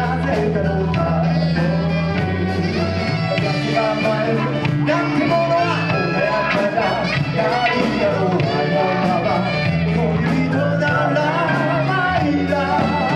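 A live band playing an upbeat song with a steady beat, full bass and some singing.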